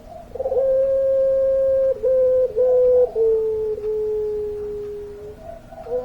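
Puter pelung dove giving a long drawn-out coo. A short note opens it, then a long held note with brief breaks, then a lower held note that sinks slightly and fades out.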